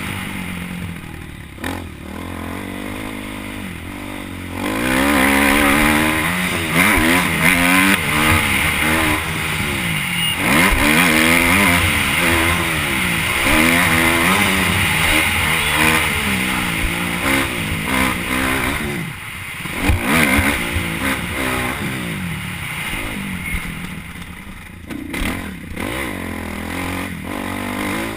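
Motocross bike engine revving up and falling back over and over as the throttle is opened and closed, quieter for the first few seconds and then loud, with brief drops where the throttle is shut.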